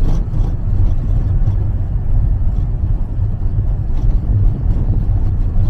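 Small bus driving along a road, heard from inside: a steady low rumble of engine and road noise.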